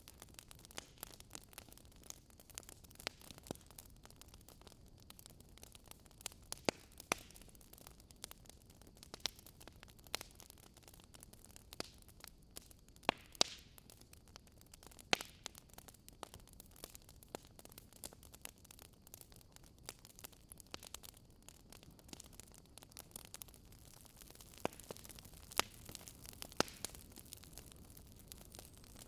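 Wood campfire crackling, with irregular sharp pops scattered throughout and a few louder snaps, over a soft steady hiss.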